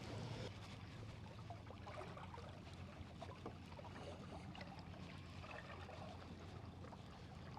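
Faint water trickling and lapping around a slowly trolling boat, over a steady low motor hum, with a few light clicks.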